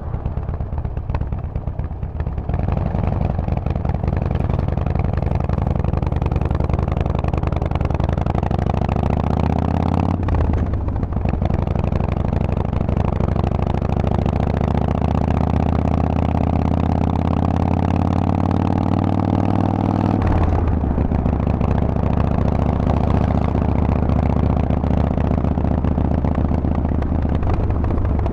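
Harley-Davidson Forty-Eight's air-cooled V-twin through a Vance & Hines exhaust, heard while riding. The engine note climbs as it pulls and drops abruptly about ten seconds in, as at an upshift. It then climbs slowly for about ten seconds, drops abruptly again and runs steadily.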